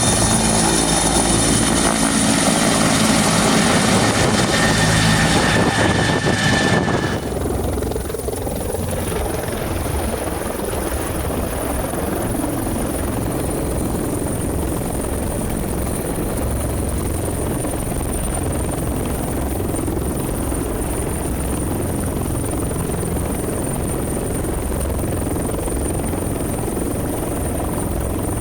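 Bell 412HP helicopter's turbine engines and rotor running loud through takeoff. About seven seconds in the sound drops suddenly and settles into a steady rotor beat with a thin high turbine whine as the helicopter hovers.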